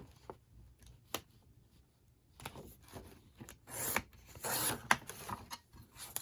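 Paper hinge material for a book being handled: a sharp tap about a second in, then a few seconds of rubbing and rustling strokes.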